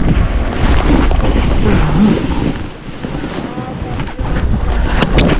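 Wind buffeting the microphone over the hiss of a snowboard sliding through deep snow. A couple of sharp knocks come near the end.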